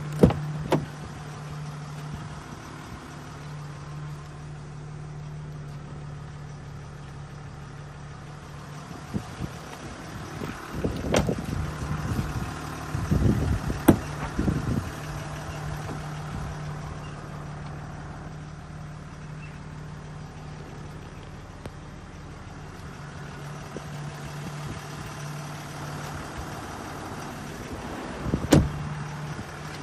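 A vehicle engine idling with a steady low hum, broken now and then by a few sharp knocks and scuffing handling noises.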